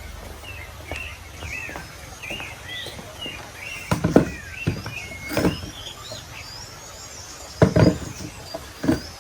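Birds chirping and warbling, with a few loud knocks: a pair about four seconds in, one in the middle, a close pair near the end and a last one just before the end.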